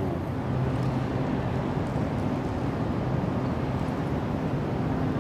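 Steady low hum with a rushing air noise from an electric passenger train standing at the platform with its doors open, its onboard equipment running while it waits.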